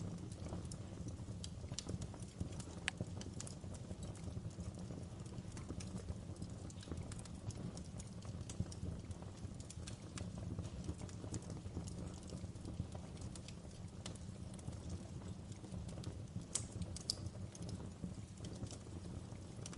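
Wood fire burning in a fireplace: a steady low rush of flame under frequent sharp crackles and pops, with a few louder pops about three seconds in and again near the end.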